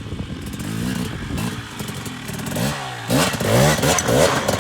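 Two-stroke dirt bike engine revving, its pitch rising and falling at low throttle. About three seconds in come louder bursts of throttle as the rider blips it and pops the clutch to climb a log.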